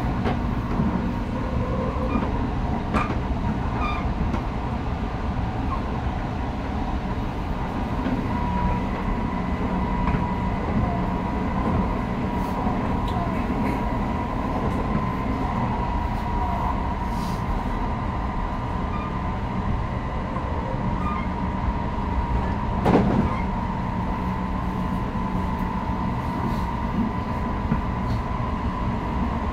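Odakyu electric train running steadily, heard from inside the carriage: a continuous rumble of wheels on rail with a thin steady whine, and a single sharp clunk about 23 seconds in.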